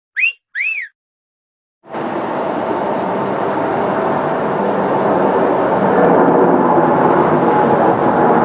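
Two short chirps that rise and fall in pitch, then a moment of silence, then the steady rushing sound of a jet airliner on its landing approach, growing slightly louder.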